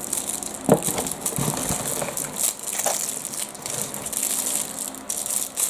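Plastic packaging crinkling and rustling as squishy toys are handled and unwrapped, with a sharp knock about three-quarters of a second in.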